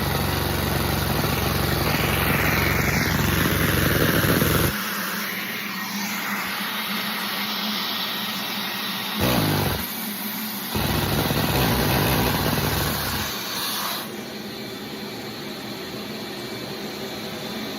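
Small gasoline engine running, then cutting out suddenly about five seconds in. It gives a brief sputter a few seconds later, runs again for about three seconds, and stops, leaving a faint hiss.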